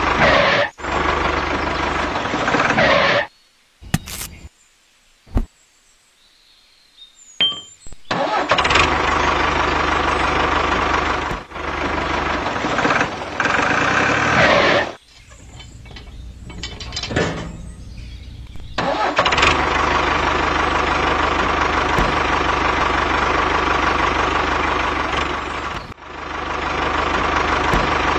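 Engine running sound of a miniature toy tractor, steady and even, in stretches that cut off abruptly. There are a few seconds of near silence with a few clicks from about three seconds in, and a quieter stretch in the middle.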